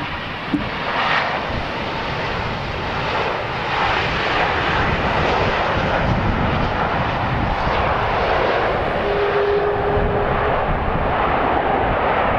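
Jet engine noise of a landing Boeing 777, a steady roar that grows louder about two seconds in and then holds, with a brief steady tone about nine seconds in.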